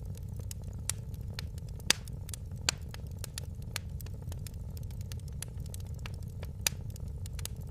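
Fire crackling in a fireplace: a steady low rumble under many small sharp crackles, with a few louder pops, about two seconds in, near three seconds and near the end.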